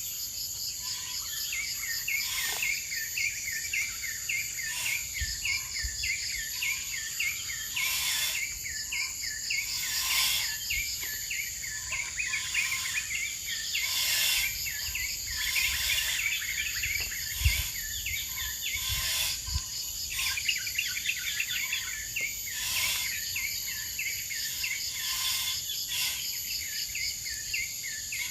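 Forest insect chorus: a steady high-pitched drone under rapid trains of chirps, with a short hissing burst every two to three seconds and brief lower calls among them.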